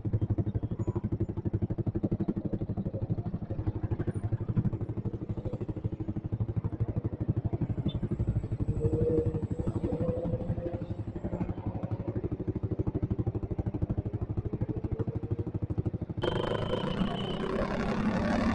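Motorcycle with an open "brong" exhaust running, its exhaust pulses coming in a fast, even beat. About sixteen seconds in, it abruptly changes to a louder, noisier engine sound.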